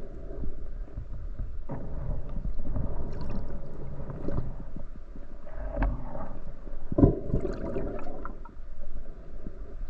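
Muffled underwater noise picked up by a camera in a waterproof housing during a spearfishing dive: water movement and bubbling, with a few sharp knocks about 2, 6 and 7 seconds in.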